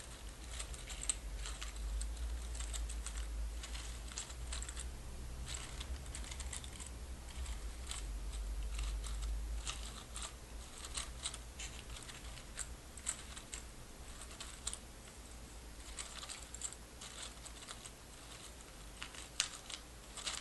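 Small hard objects handled close to the microphone, making dense, irregular clicks and rattles, with a low rumble of handling noise through the first half.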